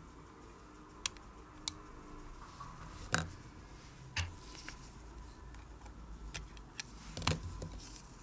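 Scattered small, sharp clicks and taps of a watchmaker's hand tools on the parts of a Seiko 5M62A Kinetic movement being taken apart, about seven in all, over a faint steady background hum.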